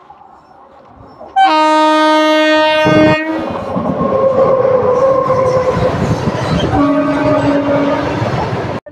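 An Indian Railways WAG-9 electric freight locomotive sounds a loud horn blast of about two seconds as it passes close by, then its train of covered goods wagons rumbles and clatters past. A second, weaker horn blast comes near the end.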